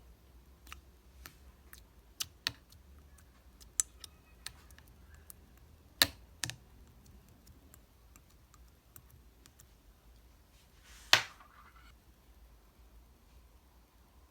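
Clear, transparent slime being pressed and squished by hand, giving irregular sharp clicks and pops. The loudest pop comes about 11 seconds in.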